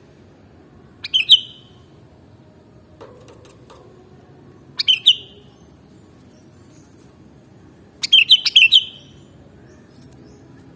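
Sooty-headed bulbul (kutilang) song: three short phrases of quick, chirpy notes a few seconds apart, the last one the longest.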